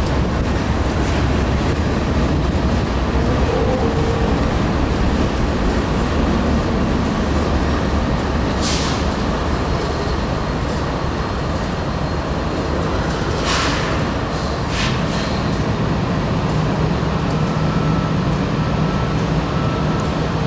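Freight trains rolling past at slow speed: a steady rumble and rattle of cars and wheels on the rails, with a few short hisses of air along the way and a faint thin squeal near the end.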